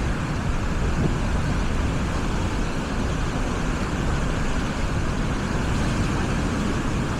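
Steady seaside noise of surf and wind with a deep rumble, unbroken throughout.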